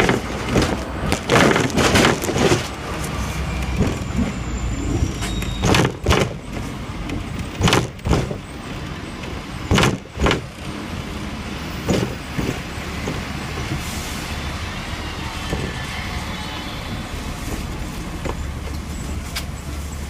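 Hong Kong double-deck electric tram running along its track: a steady low rumble with several sharp clacks and clatters in the first half, then smoother running.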